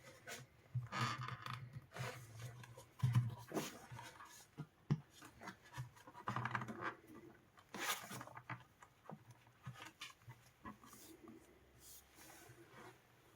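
Hand-work noises on the Sonos Playbar being repaired: irregular scrapes, taps and small clicks of parts and tools being handled, quieter near the end.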